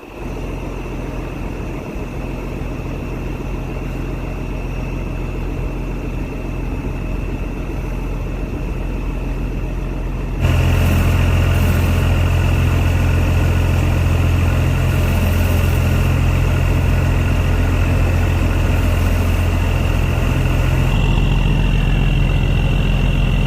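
Boat's engine running steadily, with a low, even hum and a thin high whine; it gets suddenly louder about ten seconds in and changes pitch slightly near the end.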